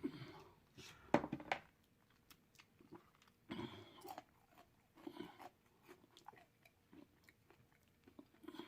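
A person chewing and biting food with scattered crisp crunches, the loudest about a second in.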